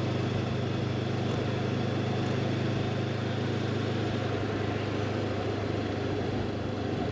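Honda CB500X motorcycle's parallel-twin engine running steadily while riding, under a steady rush of wind noise.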